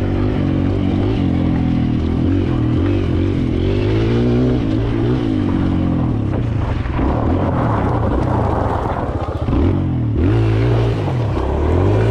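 Kawasaki KLX 140L dirt bike's single-cylinder four-stroke engine under way, revving up and falling back several times as it accelerates.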